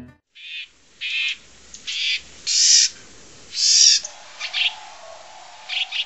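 A bird calling in a series of short, harsh, high-pitched calls, roughly one a second.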